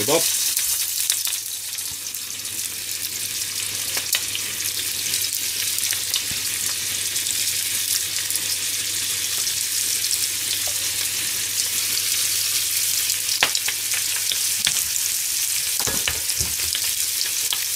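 Flour-dusted chicken livers frying in sesame oil in a frying pan: a steady high sizzle with scattered crackles and pops.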